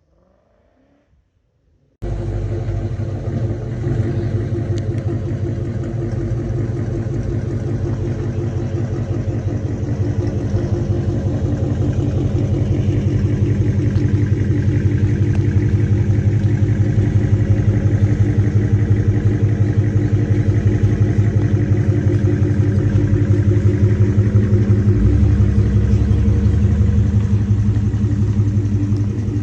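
Straight-piped Lexus V8 exhaust running loud and steady, with a dense, even burble. It cuts in abruptly about two seconds in and stays at much the same pitch, without big revs.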